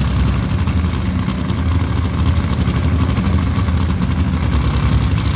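Drag race cars' engines idling at the starting line, running steadily.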